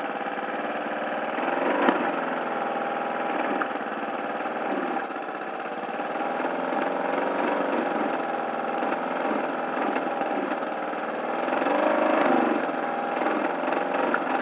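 Lawn mower engine running, with two-stroke oil mixed into its fuel. It mostly holds a steady speed, with its pitch swelling and sagging a few times, about two, five and twelve seconds in.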